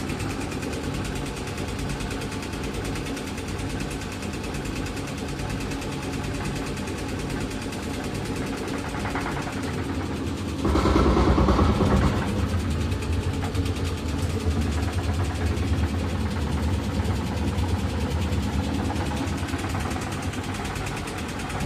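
Eudora 38 Super washing machine running with a steady motor hum. About halfway through comes a louder rushing surge lasting a second or so.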